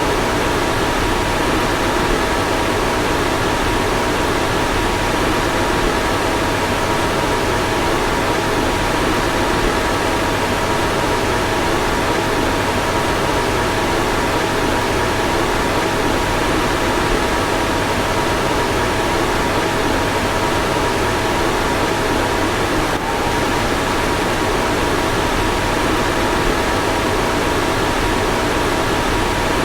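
Car fan running steadily: an even rush of air with a faint steady whine in it. There is a brief tick about two-thirds of the way through.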